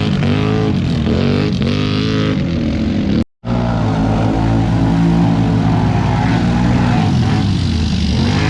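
ATV engines revving up and down in the mud. The sound drops out for a split second about three seconds in, and after that the engines run more steadily under load.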